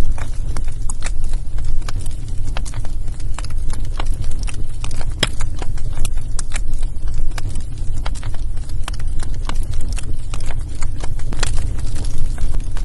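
Wood fire burning in a fireplace: burning logs crackling and popping at irregular intervals over a steady low rumble of flame, with one sharper pop about five seconds in.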